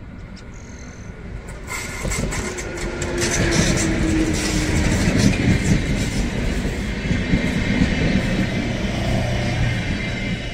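UT440 electric multiple unit passing close by at speed: sharp clicks of its wheels over the rails about two seconds in, then a steady loud rumble and rattle of wheels on track that eases off near the end as the last car goes by.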